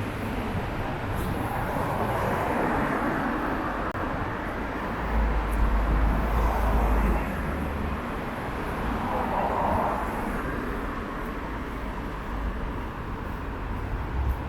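City street traffic: a steady hum of cars passing, swelling and fading as vehicles go by, with a low rumble from about five to seven seconds in.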